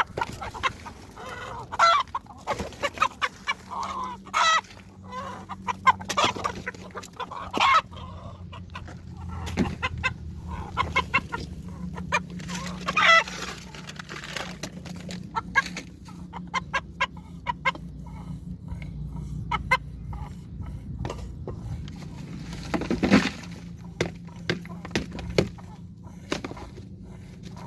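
Domestic chickens clucking with repeated short calls, busiest in the first half, over a steady low hum.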